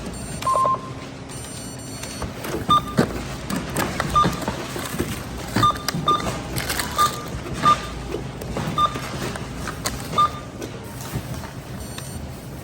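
Checkout barcode scanner giving short single-pitch beeps, about eight of them at irregular gaps, as grocery items are scanned one by one, with light knocks of items being handled. Background music runs underneath.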